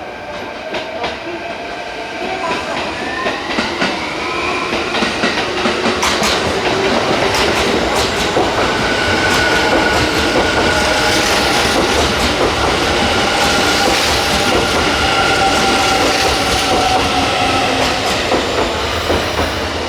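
Kintetsu 80000 series Hinotori limited express train running into the station platform. It grows louder over the first few seconds, with sharp clicks from the wheels over the rail joints and steady whining tones from the running gear.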